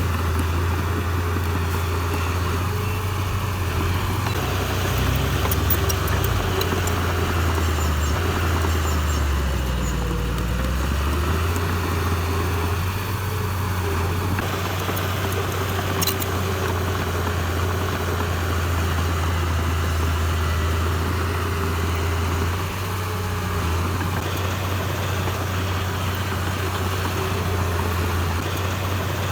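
Heavy diesel engine running steadily under work. Its low pitch sags and then rises again about ten seconds in, and there is a single sharp click about halfway through.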